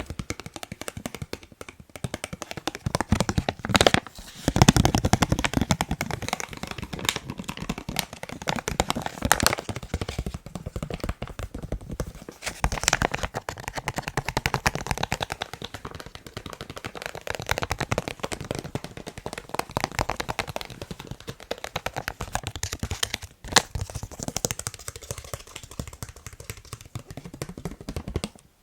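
Fast tapping with the fingers on a face mask: a dense, uneven run of quick taps with no pause.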